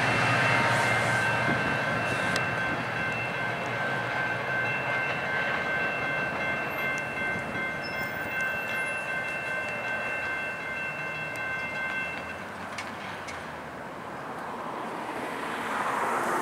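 A GO Transit commuter train, an MP40PH-3C diesel-electric locomotive pushing from the rear, running away into the distance. A steady high-pitched whine rides over the rumble and stops about twelve seconds in. The sound fades, then a passing car grows louder near the end.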